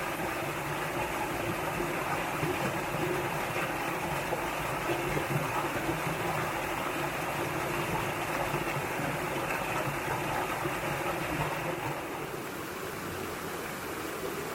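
Mountain valley stream rushing over rocks, a steady rush of water that drops slightly in level about twelve seconds in.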